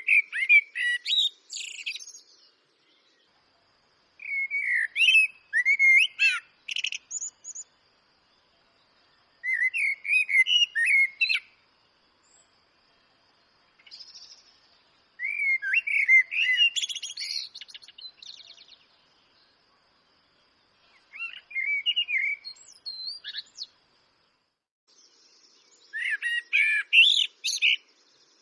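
Eurasian blackbird singing: six separate phrases, each a low fluty warble that breaks into a thin, squeaky twitter at the end, with a pause of two to three seconds between phrases.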